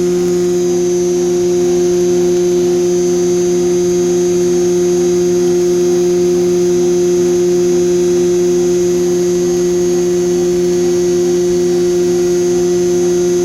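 Tanker truck's PTO-driven vacuum pump running steadily while loading water into the tank: a loud, even hum with a faint regular pulsing.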